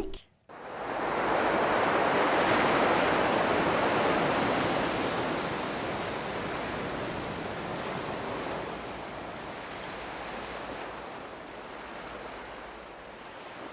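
Ocean surf washing: a steady rushing that swells in during the first second and slowly fades toward the end.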